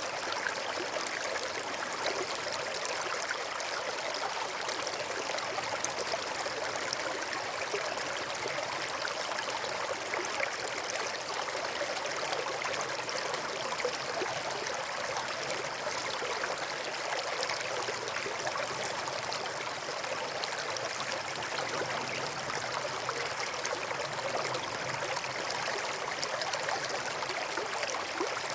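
Small stream flowing steadily: an even rush and trickle of running water with no pauses.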